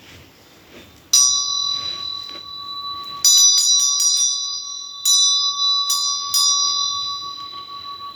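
A small bell struck several times, each strike ringing on in clear high tones. The first strike comes about a second in, a quick flurry follows at about three seconds, then single strikes near five and six seconds.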